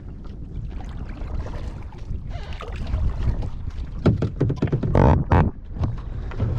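Kayak on choppy water, with wind rumbling on the microphone and water lapping and splashing. About four seconds in comes a short cluster of louder splashes and knocks against the kayak.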